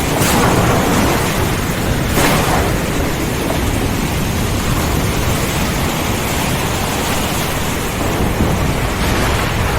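Steady rain with a low rumble of thunder, with two brief louder surges, one near the start and one about two seconds in.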